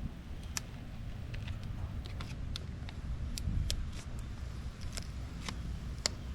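Scattered sharp little clicks and crackles of hands working a vinyl decal and its paper backing, over a steady low rumble.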